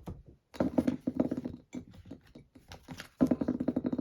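A dog growling in two stretches, one about half a second in and a louder one from about three seconds in, each a low, rapidly pulsing rumble.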